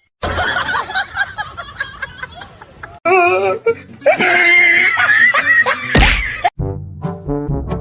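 A rapid run of short sound bites cut one after another: people laughing and squealing, with music coming in near the end.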